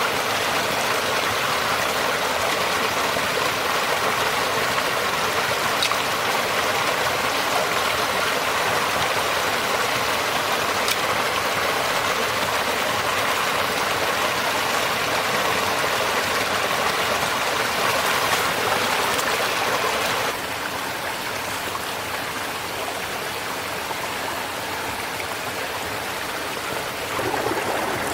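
Steady rushing water noise with no pitched tones, dropping slightly quieter about 20 seconds in and rising again near the end.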